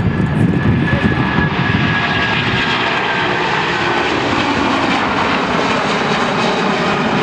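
Jet airliner at takeoff thrust: a loud, steady engine roar with a high whine that drops slightly in pitch as the aircraft passes.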